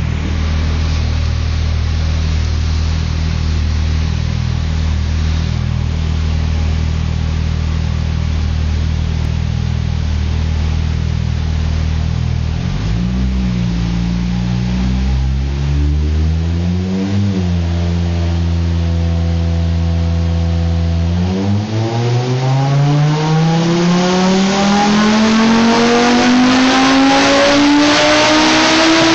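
Tuned Audi S2's turbocharged five-cylinder engine running under load on a dynamometer. It holds a steady speed, climbs and drops back briefly about halfway, then revs up in one long full-throttle pull that rises through the last eight seconds and gets louder as it goes.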